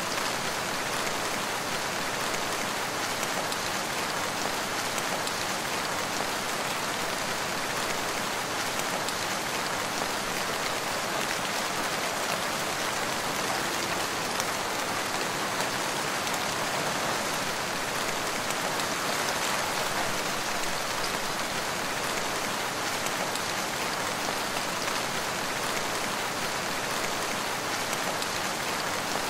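Steady rain falling, an even hiss of countless drops that neither swells nor breaks off.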